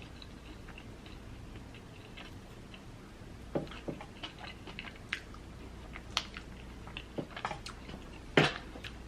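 Mouth chewing and biting food. It is faint at first, then a run of sharp clicks from about three and a half seconds in, the loudest near the end.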